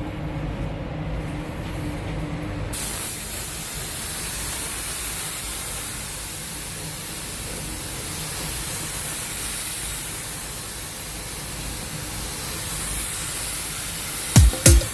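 Compressed-air paint spray gun hissing steadily as it sprays, starting about three seconds in after a low hum.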